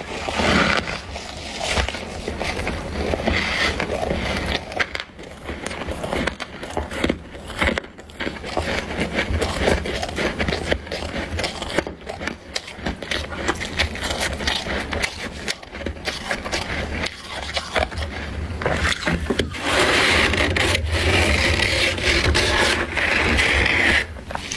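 Crunchy freezer frost scraped off by hand: a continuous, dense crackling scrape of many tiny crunches. It grows fuller and brighter for a few seconds near the end.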